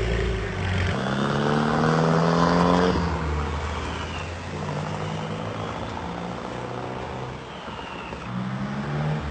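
VUL 05 supercar's turbocharged engine accelerating. Its pitch climbs for about two seconds, then drops as the revs fall, runs on lower, and rises again near the end.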